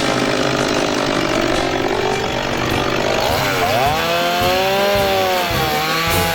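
Chainsaw running while cutting wood. Its engine pitch drops sharply about halfway through, then climbs back and wavers as the saw works through the cut.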